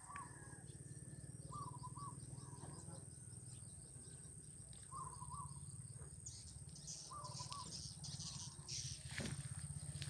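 Swiftlet lure call playing: short chirping phrases that recur every one to three seconds, with faint high twittering, over a steady high-pitched tone and a low pulsing hum.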